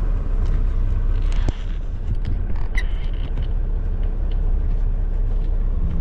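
Diesel engine of a Mack semi-truck running with a steady low rumble as the rig moves slowly, with a few faint clicks and creaks over it.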